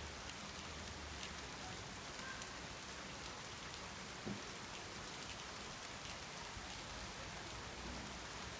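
Rain falling steadily, an even hiss of many drops with scattered individual drop ticks and one louder tap about halfway through.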